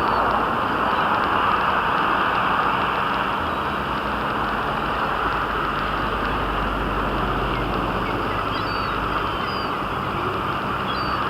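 Steady city background noise, a dense even hiss and rumble, with a few brief high bird calls from the square's feeding pigeons and gulls, mostly in the second half.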